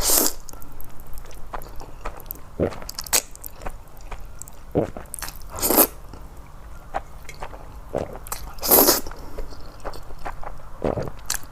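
A person eating noodles close to the microphone: chewing, with four louder slurps spaced a few seconds apart.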